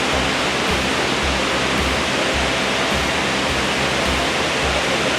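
Waterfall rushing loudly and steadily, over background music with a steady beat.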